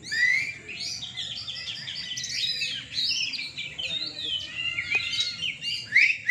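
Oriental magpie-robins (kacer) singing a continuous stream of fast, varied whistles, chirps and rising glides.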